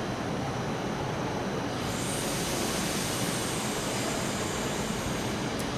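A stationary SBB double-deck electric train running its onboard ventilation and auxiliary equipment, a steady whirring noise under the station roof. A higher hiss joins about two seconds in, and there are two short clicks near the end.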